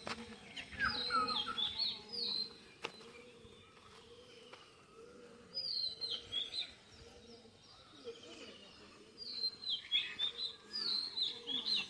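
Small birds chirping in three bouts of quick, high, falling notes.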